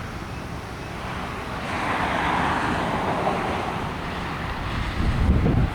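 Wind blowing across the microphone: a steady rushing hiss that swells around the middle, then heavy low buffeting gusts near the end.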